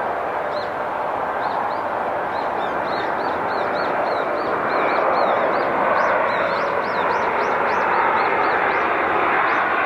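Steady rushing jet engine noise from an airliner, growing a little louder about halfway through. A small bird chirps rapidly and repeatedly over it.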